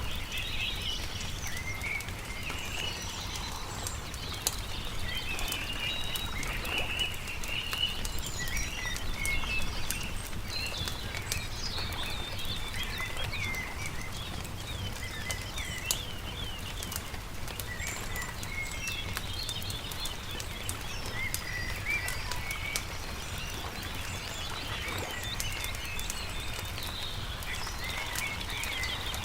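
Small songbirds chirping and trilling continuously, with a campfire crackling in scattered sharp pops, over a steady low rumble.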